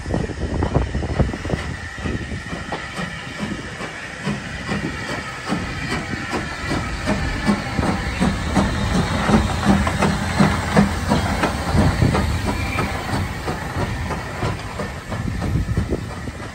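A train running past: its wheels click and clatter over the rail joints over a steady hiss, with the clatter thickest around the middle.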